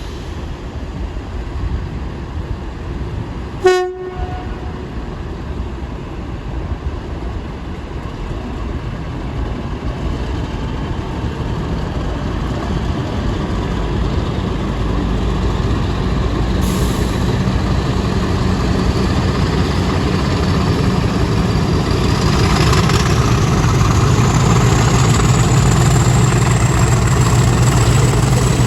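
Two Class 50 diesel locomotives with English Electric 16CSVT engines. A short horn note sounds about four seconds in. The engines then grow steadily louder, and a high whine (the Class 50 'hoovering' sound) climbs in pitch through the second half as they power up.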